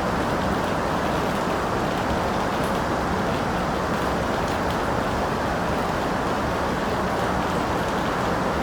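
Steady rain falling, a continuous even hiss with occasional faint drop ticks.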